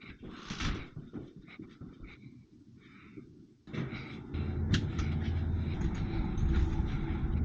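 A person breathing hard in short breaths. About three and a half seconds in, a louder steady low rumble sets in, with a sharp click about a second later.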